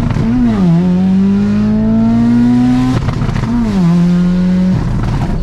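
Audi TT's built 1.8T turbocharged four-cylinder with a GTX3071R turbo, heard from inside the cabin. The engine note dips and recovers under a second in, then climbs steadily as the car accelerates. About three seconds in it breaks off sharply at a gear change and settles to a lower, steady pitch.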